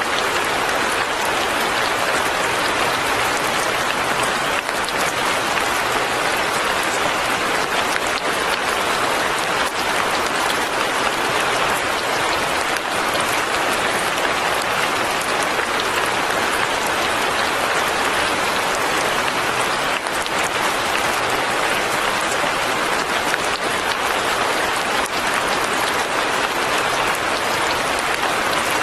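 Light rain falling steadily, an even dense patter with no let-up.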